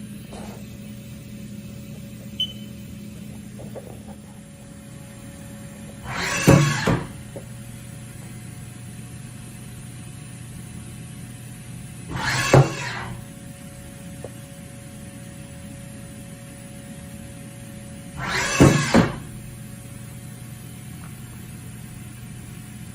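Haas VF-4 CNC vertical machining center running under power: a steady hum, with a loud burst of clatter and hiss about every six seconds, three times.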